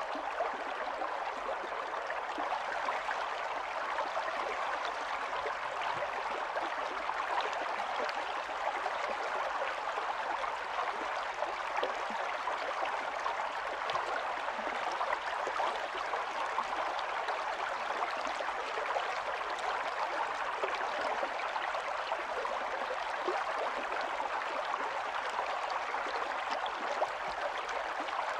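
Small stream of running water, a steady babbling and gurgling flow with no change.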